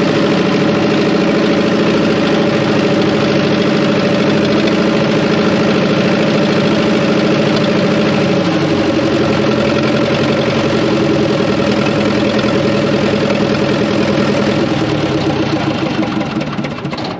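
Fordson Power Major's four-cylinder diesel engine running steadily under load as the crane is driven. Its pitch drops about halfway through, and the sound dies away near the end.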